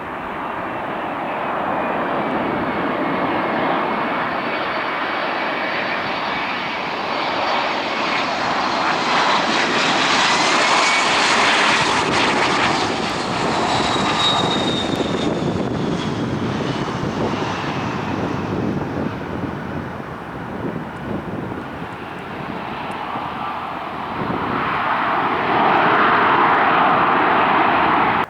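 Regional jet landing: the twin GE CF34 turbofans of an American Eagle CRJ-900 roar past, swelling to a peak with a whine that glides down in pitch as it passes. The engine noise surges again near the end.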